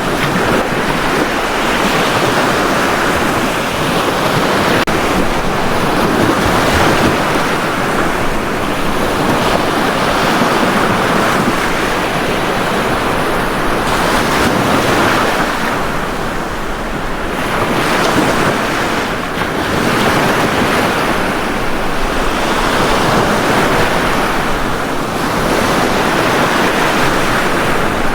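Ocean waves breaking and washing up a beach, a steady surf noise that swells and eases every few seconds, with wind on the microphone.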